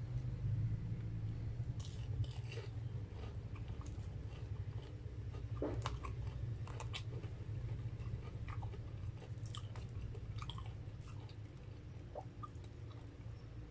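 Close-up chewing of a crunchy breadcrumb-coated deep-fried corn dog, with scattered crunches and wet mouth clicks over a steady low hum.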